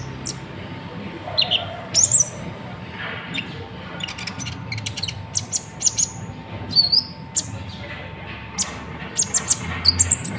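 Kolibri ninja (konin) sunbird singing: quick clusters of sharp, high chirps and short downward-sweeping notes, repeated throughout.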